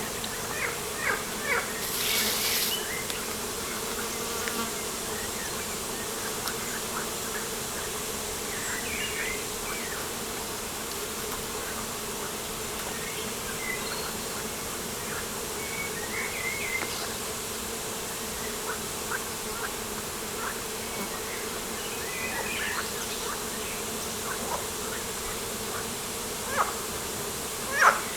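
Outdoor insect buzzing, a steady drone, with scattered short high chirps and calls over it and a brief rush of noise about two seconds in.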